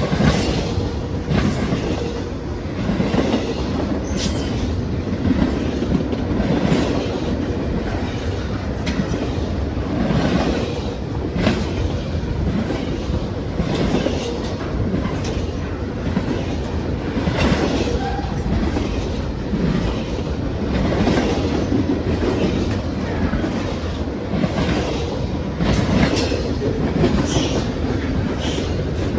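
Freight train cars rolling past, a continuous rumble with repeated clicks and knocks from the wheels over the rail.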